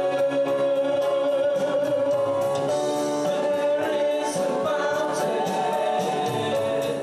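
Gospel worship music: a choir singing over a live band with a steady beat.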